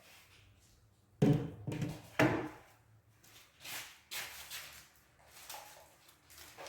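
MDF cabinet panels knocking and thudding as they are handled and fitted together: two loud knocks about a second and two seconds in, then lighter knocks and scraping.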